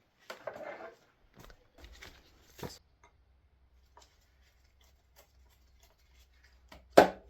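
Scattered light clicks and rustling of hand work on the carburetor wiring and fittings of a 1976 Suzuki GT750 two-stroke triple, with a sharper knock near the end.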